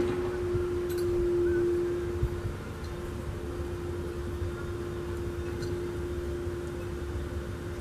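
A motor vehicle running steadily: a constant hum over a low rumble, easing slightly about two seconds in.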